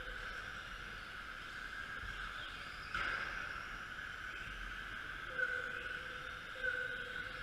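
Radio-controlled model racing trucks running around the track: a steady high whine of their motors and tyres, with a sudden louder burst about three seconds in and brief sharper tones near the end as cars pass close.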